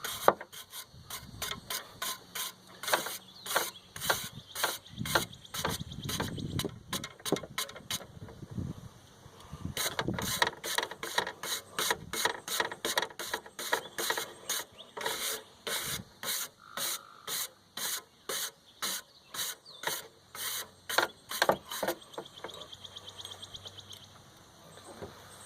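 Wire brush scrubbing the clogged aluminium fins of a window air conditioner's condenser coil, a rasping scrape in quick repeated strokes, about two or three a second, that thin out near the end. The coil is caked with dirt, which is why the unit stopped cooling.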